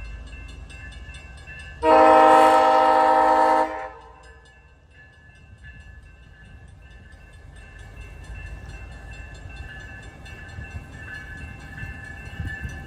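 Via Rail Siemens Venture trainset sounding its horn in one chord-like blast of about two seconds, shortly after the start. Then the low rumble of the train rolling slowly out of the siding, with a faint steady whine, slowly growing louder.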